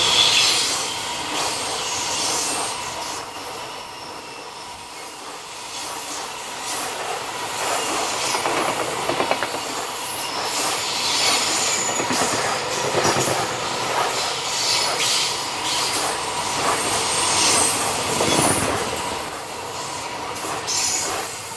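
Freight train rolling past: steady clatter of wagon wheels over rail joints, with thin high-pitched wheel squeal from the curve.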